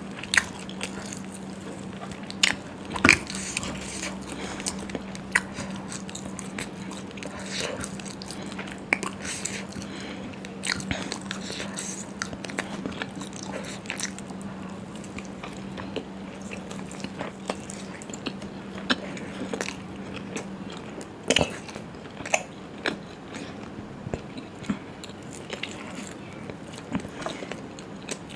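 A person chewing and biting food close to the microphone, with many sharp wet mouth clicks and smacks at an irregular pace. A low steady hum runs under it and stops about two-thirds of the way through.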